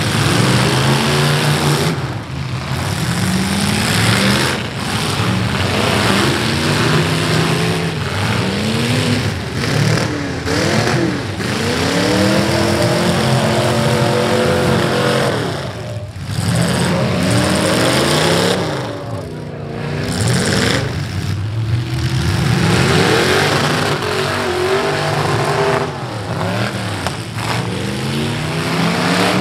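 Several V8 demolition derby cars' engines revving hard and dropping back again and again, their rising and falling notes overlapping.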